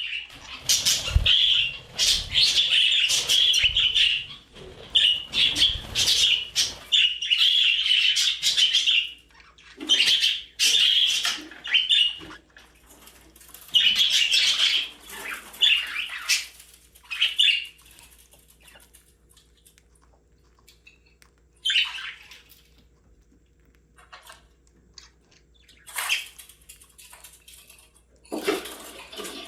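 Budgerigar chirping and chattering in quick, high-pitched bursts, busy for about the first half, then thinning out to a few scattered calls.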